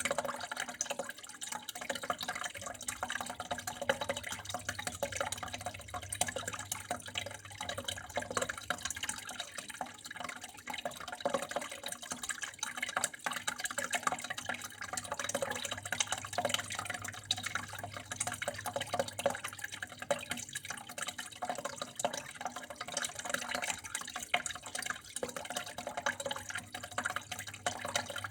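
Water flowing and trickling steadily, with many small splashes and drips, over a low steady hum.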